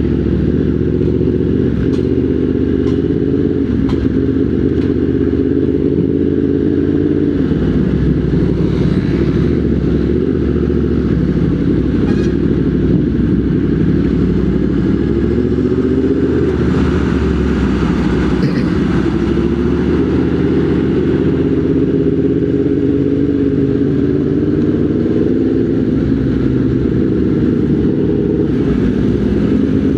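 Motorcycle engine running steadily while riding in traffic, its pitch rising and falling gently as the throttle and speed change.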